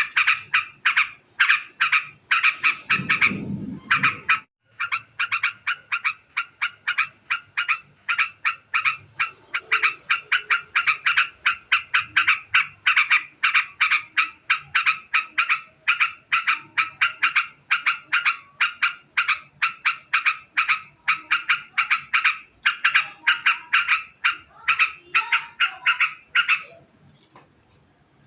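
Yellow-vented bulbul (trucukan) giving its long, very fast chattering 'ngekek' call: a rapid string of short notes at several a second, broken off briefly about four and a half seconds in and thinning out near the end. A brief low rumble sounds about three seconds in.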